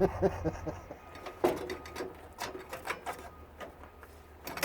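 Parts of a tankless water heater being handled during teardown: a short rapid rattle in the first second, then scattered light knocks and clicks.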